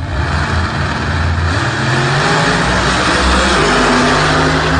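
A loud car engine under hard acceleration, its pitch climbing in steps about two and three and a half seconds in.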